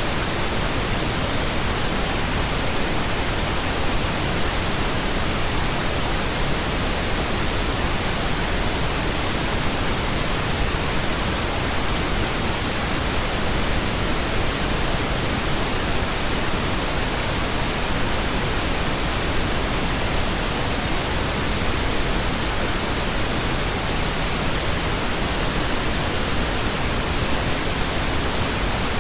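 Steady, unchanging pink noise: an even hiss spread across all frequencies.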